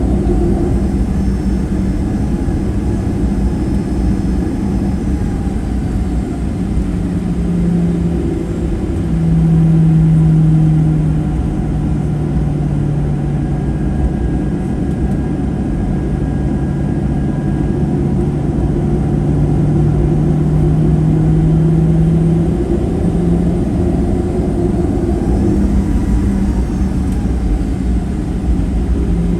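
Boeing 737-800's CFM56-7B engines humming steadily near idle, heard inside the cabin with a low rumble. The engine tone rises and swells briefly about a third of the way in, then settles again.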